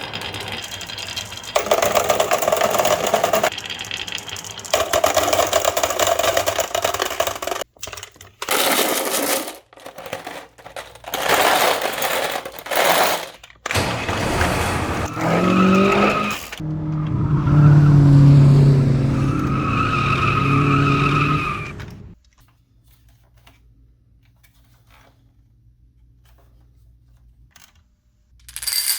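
Marbles rolling and clattering down a rain-gutter and wooden-rail marble run, a run of rattling and sharp clicks that comes and goes. From about 15 to 22 seconds in, a steady ringing hum rises briefly and then holds, then the sound drops to a faint low murmur until a short burst of rattling near the end.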